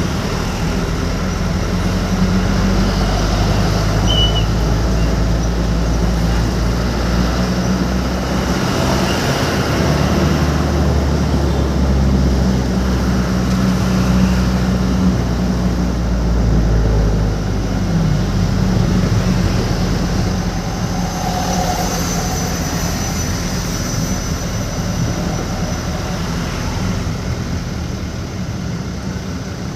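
A vehicle's engine drones low and steady while driving, its pitch shifting a little now and then, over a continuous hiss of road noise.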